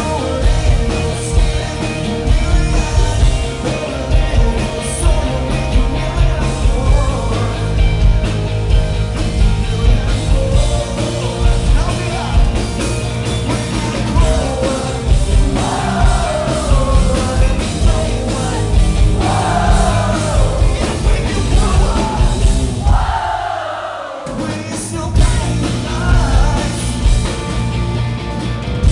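Live rock band playing a song with drums, guitars and singing. Several falling pitch slides stand out in the second half, and the bass and drums drop out for a moment about 24 seconds in before coming back.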